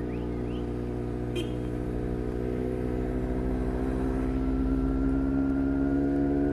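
Motorcycle engine running as the bike rides along at low speed, a steady note that rises slowly in pitch from about halfway through as it picks up speed.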